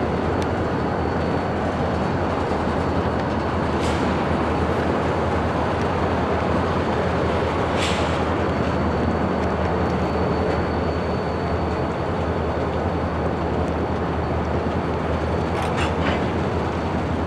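Diesel locomotive running steadily with a low, even rumble, and a few faint clicks now and then.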